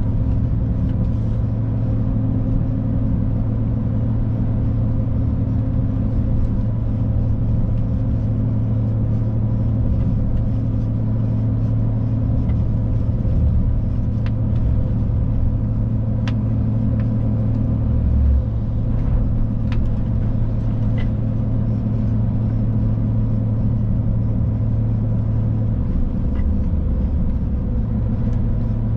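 A Scania truck's engine drones steadily at cruising speed over a low road rumble, heard from inside the cab. Near the end the engine note drops away for a moment, then comes back.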